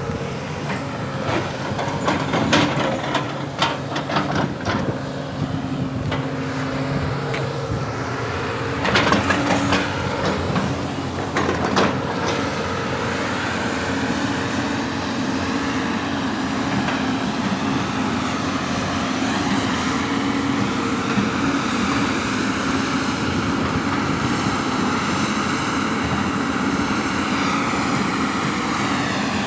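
Heavy diesel earthmoving machinery running under load, with a string of metallic clanks and knocks in the first twelve seconds or so. After that the engine settles into a steady drone that rises slightly in pitch.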